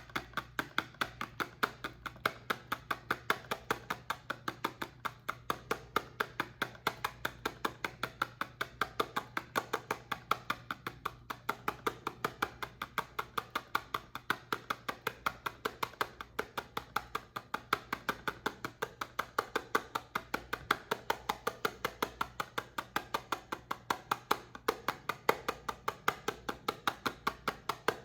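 Soap being tapped in a rapid, even rhythm: sharp clicks at about five a second, kept up steadily throughout.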